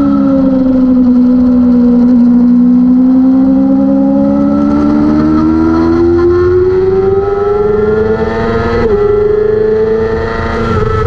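600cc superbike-class race motorcycle engine at high revs. The pitch sags a little early on, then climbs steadily under acceleration, with a brief dip near nine seconds in.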